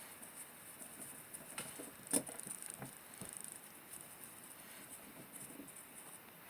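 Faint, scattered light clicks and taps of small objects being handled, with one sharper click about two seconds in.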